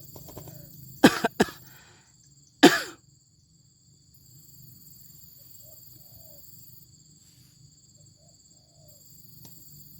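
A person gives sharp coughing sounds to shoo a bird away: three quick ones about a second in and one more just before three seconds. Insects keep up a faint steady drone.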